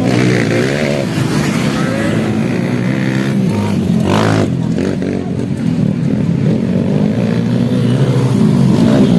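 Dirt bike engines revving and easing off on the motocross track, their pitch rising and falling over and over.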